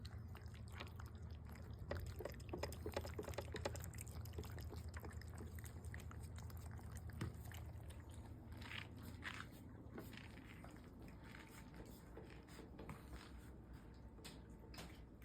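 House cats eating their food: many small irregular chewing clicks, busiest a couple of seconds in.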